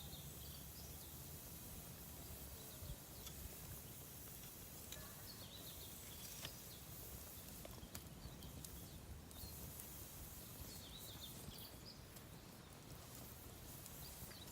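Campfire of damp firewood crackling faintly, with a scattering of small sharp pops.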